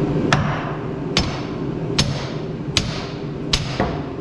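Hammer striking a steel track pin, trying to drive it into the paver's track chain: five sharp metallic blows about one every 0.8 s, each ringing briefly, with a lighter tap near the end. The pin is not going in easily.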